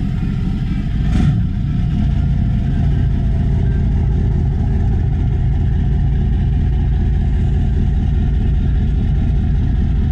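Twin Detroit Diesel 8.2TA turbocharged V8 marine diesels on a cold start in the engine room. The starboard engine is already idling, and the port engine fires and catches about a second in. Both then idle together, a little louder and steady.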